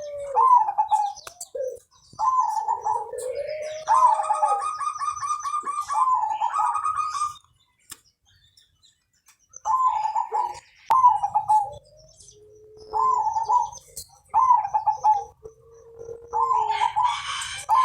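Zebra dove (perkutut) cooing: repeated phrases of soft, trilled coos with a pause of about two seconds near the middle.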